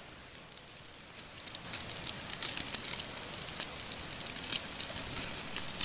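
Pork belly sizzling and spattering on a grill over a campfire, building up from about a second in, with many sharp crackles of popping fat.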